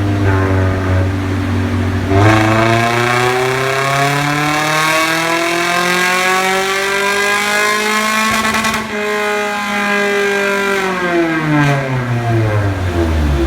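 Toyota Vios's naturally aspirated four-cylinder engine, breathing through a full straight-through exhaust, idling and then climbing steadily in revs for about six seconds as if under load. The revs then ease off and drop back to idle near the end.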